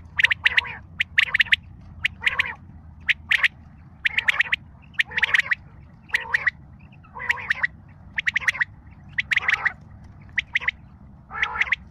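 Recorded bird calls: harsh, squawking notes in short rattling bursts, repeating about once a second, played as a call sound to attract the bird called chitra.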